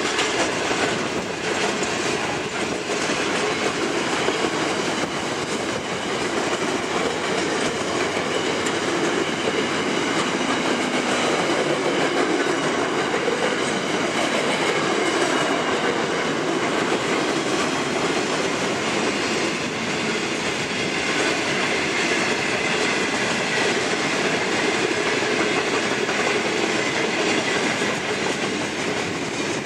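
Freight wagons of a long container and steel train rolling past close by: a steady, loud noise of steel wheels running on the rails, unbroken throughout.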